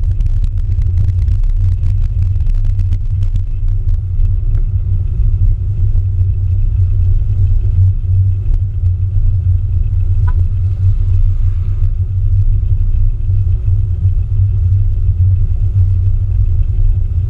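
A Mini's engine running at low road speed, a steady low rumble, heard from a camera mounted on the outside of the car.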